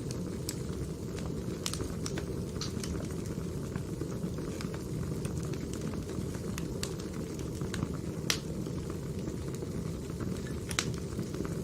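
Firewood burning: a steady low rush from the flames with scattered sharp crackles and pops, two louder pops about eight and eleven seconds in.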